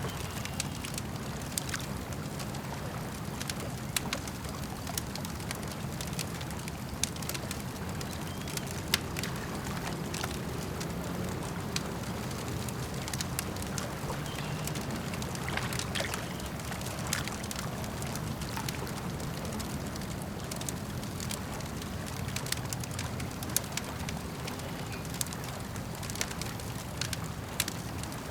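Wood campfire crackling, with many sharp irregular pops, over a steady low wash of lake water.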